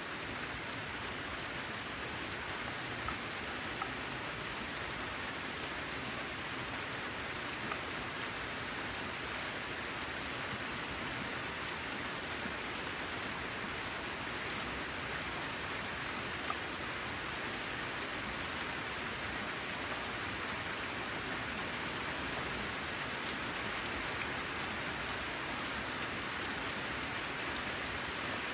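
Steady rain falling on a corrugated metal roof: an even hiss with scattered sharper ticks of single drops.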